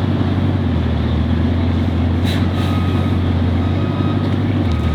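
A vehicle engine running with a steady low drone. There is a short click about two seconds in.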